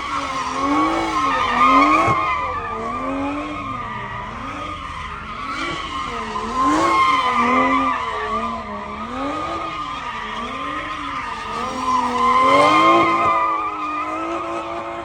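A car doing donuts: its tyres squeal steadily while the engine revs rise and fall over and over, about once a second.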